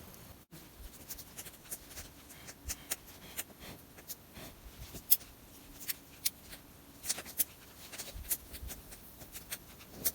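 Small campfire just catching: the kindling crackles, with many irregular sharp pops and snaps.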